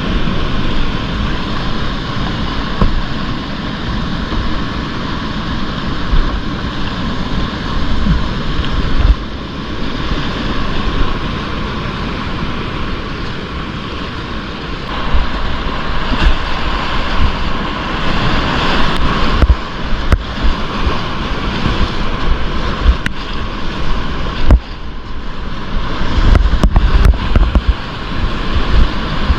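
Whitewater river rushing, with water and wind buffeting a GoPro's microphone and a few sharp knocks in the second half.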